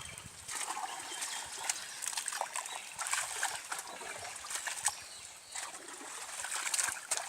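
Muddy water in a flooded paddy field splashing and trickling in irregular bursts, with scattered short sharp splashes.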